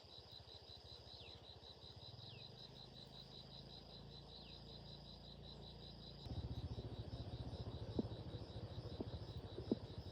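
Cricket chirping in a steady, evenly pulsed trill, over a low rhythmic rumble that grows louder about six seconds in, with a few light clicks near the end.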